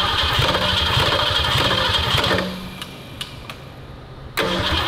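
Racing Ford Pinto's newly installed engine fired up for the first time, running on open pipes with no exhaust system fitted. It runs loudly, cuts out about two and a half seconds in, then fires again abruptly near the end.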